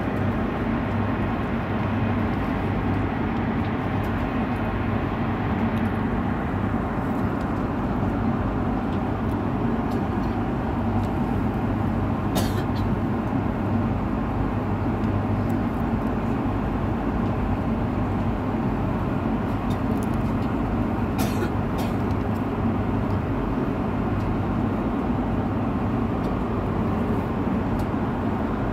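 Airliner cabin noise in flight: a steady drone of engines and airflow with a low hum. Two brief sharp clicks stand out, about a third and three-quarters of the way through.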